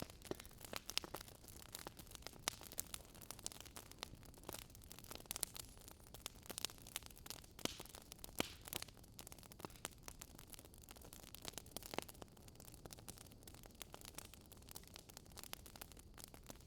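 Campfire crackling softly: irregular small pops and snaps of burning wood over a faint steady hiss.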